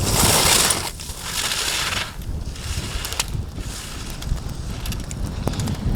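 Slalom skis scraping over hard snow, a loud hiss for the first second that then falls to a softer scrape with a few sharp clicks. Wind rumbles on the microphone.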